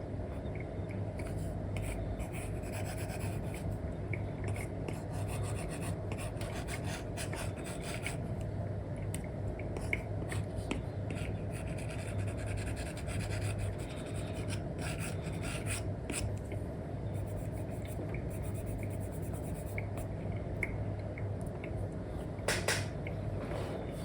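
Stylus nib rubbing and scratching across a paper-like screen film on a tablet, in many short, uneven strokes as an area is coloured in, over a steady low hum.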